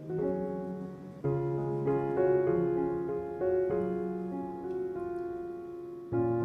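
Soft solo piano background music: slow chords, each struck and left to ring and fade.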